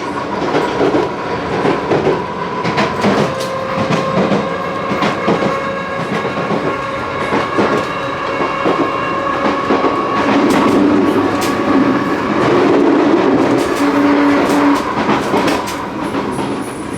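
Island Line Class 484 electric train running along the track: wheels clicking over the rail joints, with a steady whine under the rumble of the running.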